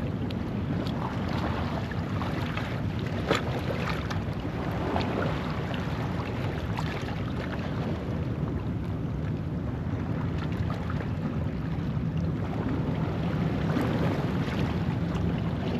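Ocean waves washing over a rocky shoreline at low tide: a steady rush of surf with scattered splashes and crackles among the rocks, the sharpest about three seconds in. Wind buffets the microphone underneath.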